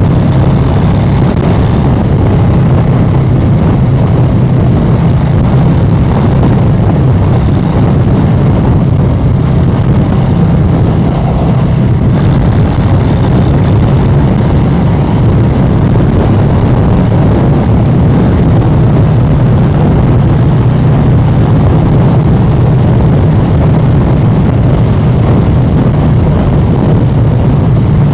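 Harley-Davidson Street Bob 114's Milwaukee-Eight 114 V-twin running steadily through an aftermarket SP Concepts exhaust while cruising, with a loud, deep, even exhaust note.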